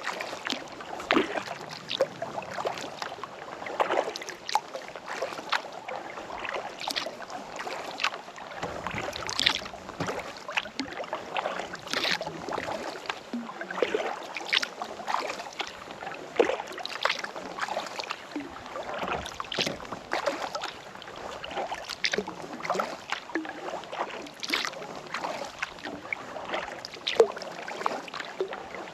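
Kayak paddle strokes in lake water: the blades dip, pull and splash over and over, with drips and water sloshing between strokes.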